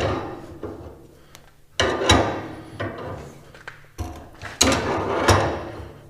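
Loud clattering knocks: one at the start, one about two seconds in and a double one about four and a half seconds in, each dying away over about a second, over a faint low steady hum.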